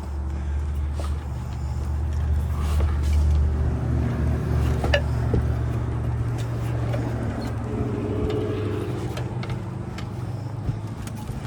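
A vehicle engine running with a steady low hum that weakens about halfway through, with a few light clicks and knocks.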